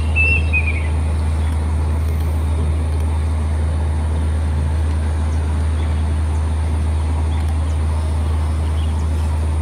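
Plaintive cuckoo singing: the last few short, high whistled notes of a phrase, the final one sliding down in pitch within the first second. These sit over a steady low rumble that continues throughout.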